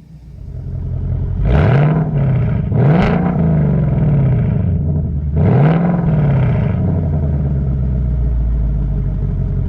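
2019 Mustang GT's 5.0 L Coyote V8, with a Pypes H-pipe in place of the resonators and the active exhaust in sport mode, revved three times from idle and then settling back to a steady idle, with a deep exhaust note heard from inside the cabin.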